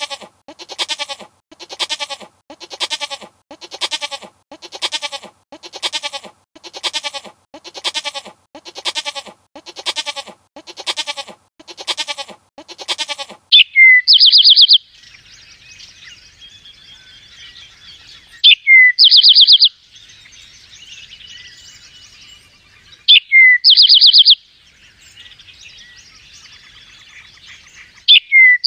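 Bleating, about one call a second, repeated some fourteen times. Then a bird call, a sharp falling note followed by a fast high trill, repeats about every five seconds over faint background birdsong.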